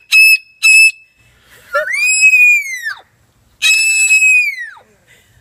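Parrot screeching loudly. Two short shrill calls come first, then two long screeches of about a second each: the first rises and then falls in pitch, the second holds steady and then drops away.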